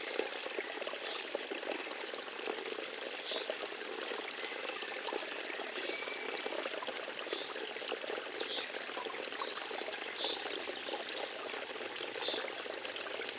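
Forest stream trickling and splashing steadily, with short high chirps every second or two and a single sharp click partway through.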